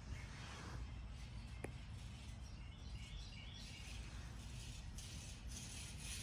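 Faint bird chirps, a short run of them about halfway through, over a steady low rumble of outdoor background noise.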